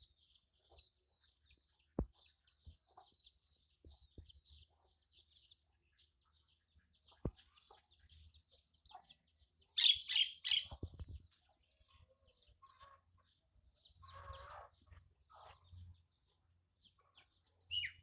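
Small chickens peeping steadily and faintly, with a quick run of three loud, sharp calls about ten seconds in and a rougher call a few seconds later. A few single knocks are heard, one about two seconds in and another about seven seconds in.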